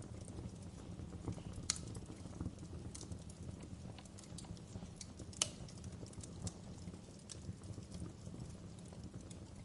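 Wood fire crackling in a fireplace: irregular sharp pops and snaps over a low, steady rumble. Two louder pops come about two seconds in and again past five seconds.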